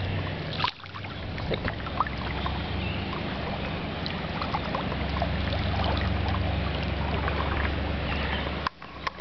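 Water sloshing and splashing while moving through deep floodwater, over a steady low motor hum. The sound briefly drops out about a second in and again near the end.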